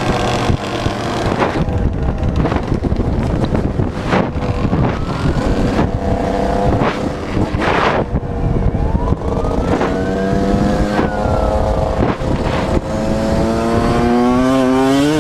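Motorcycle engine running while riding, its pitch drifting up and down with speed and climbing steadily near the end as it accelerates.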